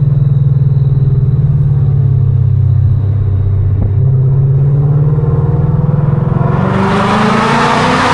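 2019 Mustang GT's 5.0-litre V8, breathing through catless headers and a straight-piped exhaust, running at steady revs. About six and a half seconds in, the revs climb sharply and a dense, harsh noise builds over the engine note.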